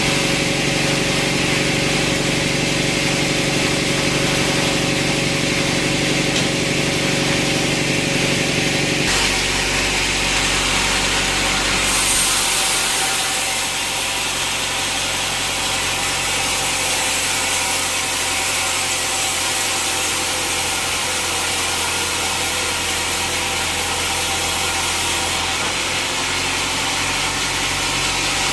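Sawmill saw running and cutting teak. The sound changes about nine seconds in, and from about twelve seconds until shortly before the end it carries a brighter, steady hiss.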